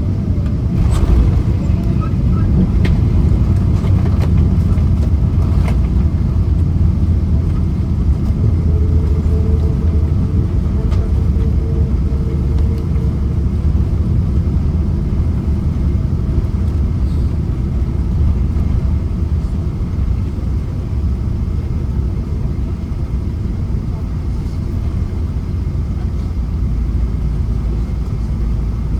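Inside the cabin of a Boeing 777-200ER during the landing rollout: a loud, steady low rumble of the engines and the wheels on the runway as the airliner slows, with a few knocks and rattles in the first few seconds. The rumble eases slightly in the second half.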